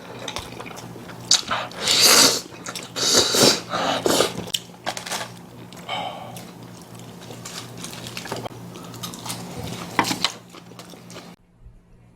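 A person eating budae-jjigae stew with ramen noodles close to the microphone: several loud slurps in the first few seconds, then chewing and a few sharp clicks of utensils. The sound drops away suddenly near the end.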